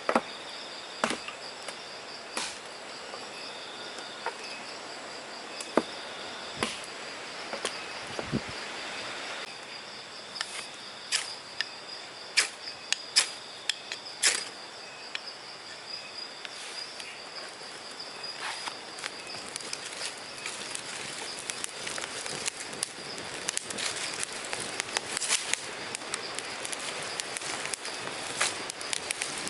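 Insects, crickets or similar, trilling steadily at a high pitch, with scattered sharp clicks and knocks at irregular intervals.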